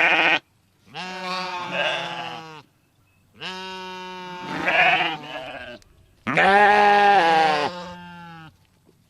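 Sheep bleating: three long, wavering bleats with short pauses between them, the last the loudest, after the tail end of another bleat at the very start.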